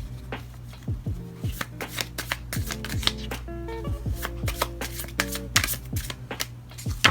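A deck of tarot cards being shuffled, a run of quick, irregular papery clicks and riffles, over background music with a steady kick-drum beat.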